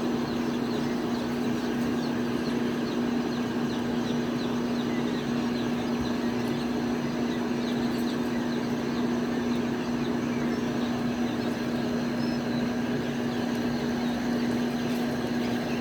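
A steady low electrical or fan hum, with faint, rapid high peeping of young birds over it, most frequent in the first half.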